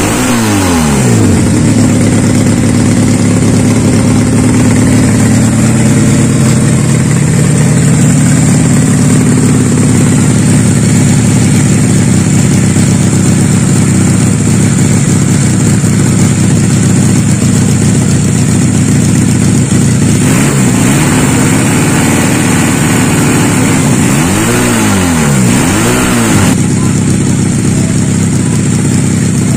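Custom two-cylinder engine of a Honda Supra motorcycle running steadily, with the revs falling back right at the start and two quick throttle blips that rise and fall near the end.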